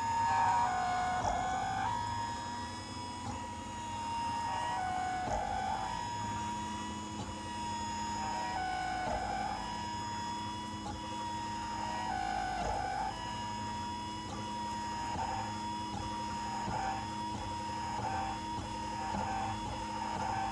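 Printrbot Simple 1403 3D printer whining while printing: a steady high tone that dips lower in pitch and comes back up every few seconds as the print moves change. The owner believes the whine comes from the X-axis movement.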